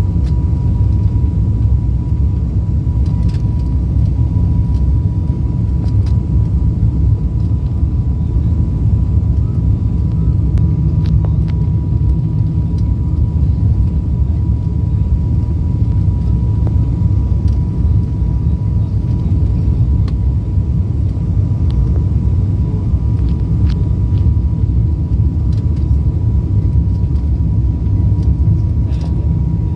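Cabin noise of an ATR 72 turboprop airliner: a steady, loud, low rumble from the engines and propellers, with a thin steady whine over it.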